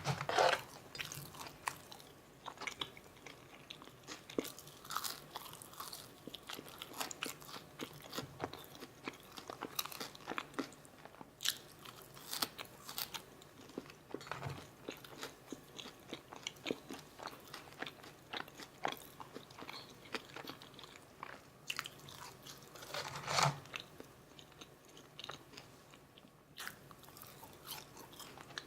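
Close-miked mouth sounds of eating McDonald's food: steady crunchy chewing with irregular crackles, and louder bites near the start and about two-thirds of the way through.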